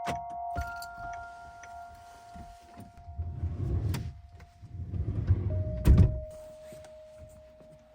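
A minivan's sliding door running along its track twice, ending in a sharp thunk as it latches, over soft glockenspiel-like music.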